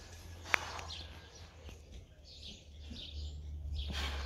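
Small birds chirping and twittering, over a steady low rumble, with one sharp click about half a second in.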